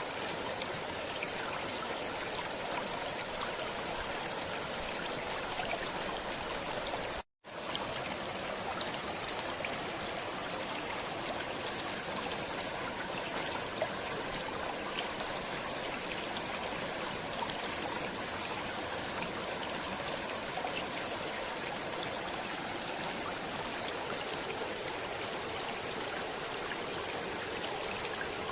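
A stream flowing steadily, with an even rush of running water. About seven seconds in, the sound cuts out to silence for a split second, then resumes.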